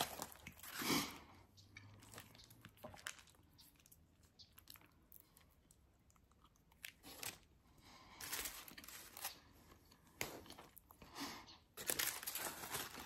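A person chewing a bite of burrito tortilla close to the microphone. The soft crunching and mouth noises come in irregular bouts, with a quieter stretch in the middle.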